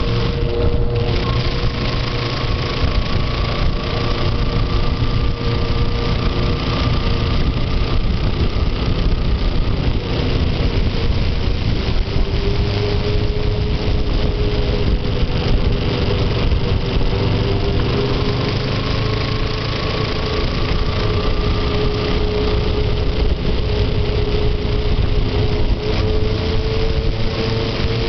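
Motorcycle engine running steadily on the move, its pitch drifting slowly up and down, under a loud steady rush of noise.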